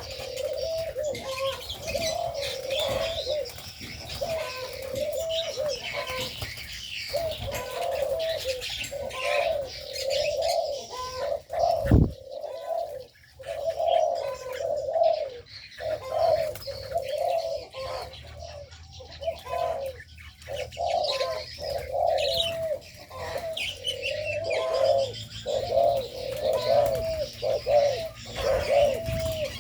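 Spotted doves cooing over and over in an aviary, their phrases overlapping, with smaller birds chirping faintly above them. One sharp thump about twelve seconds in.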